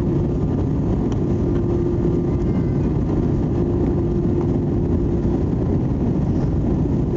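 Steady cabin noise inside an Airbus A320 airliner in flight: the even rumble of the engines and rushing air, with a steady hum that drops out briefly a couple of times.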